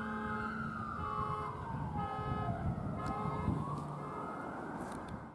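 Fire apparatus responding with its electronic siren wailing slowly up and down, while a steady horn tone sounds in short blasts about once a second. Engine rumble runs underneath.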